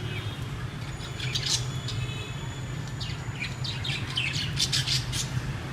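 A flock of budgerigars chattering, with many quick chirps and squawks overlapping, growing busier about halfway through. A steady low hum runs underneath.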